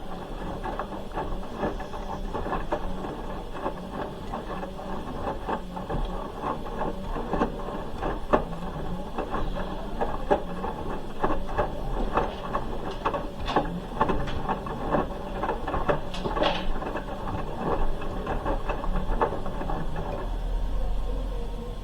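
Hoover H-wash 300 Plus washing machine mid-wash, its drum turning the wet load with a steady run of irregular clicks, knocks and swishes over a low motor hum. The clicking thins out near the end while the hum stays.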